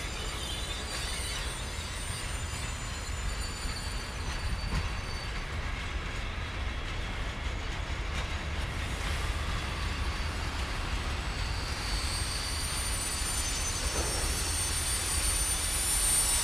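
A long freight train of container wagons rolling slowly past, with a steady low rumble and thin, high-pitched wheel squeal that grows louder over the last few seconds.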